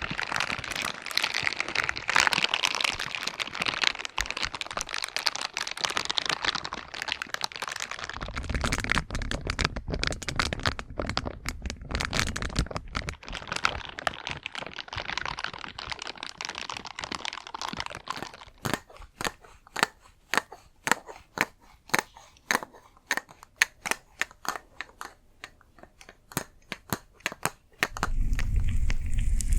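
Close-miked ASMR trigger sounds: dense crinkling at first, then a run of sharp separate taps or clicks, about three to four a second, in the second half.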